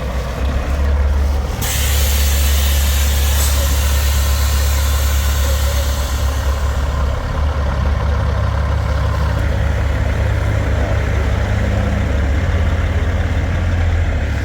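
Heavy diesel truck engine idling with a steady low rumble. A long hiss of air starts suddenly about a second and a half in and fades away after about five seconds.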